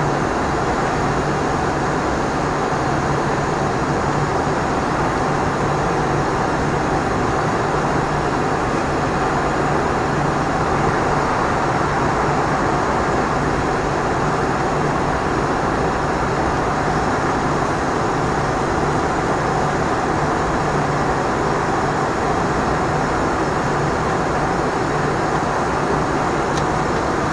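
Steady flight-deck noise of an Embraer ERJ 145 regional jet in flight: an even rush of airflow and engine noise with a constant low hum underneath.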